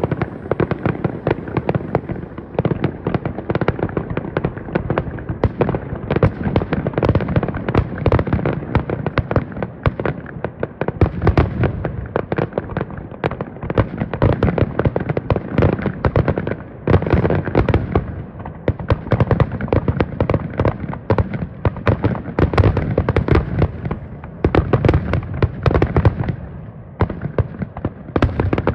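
Aerial fireworks shells bursting in quick, overlapping succession: a dense barrage of bangs with hardly a gap between them.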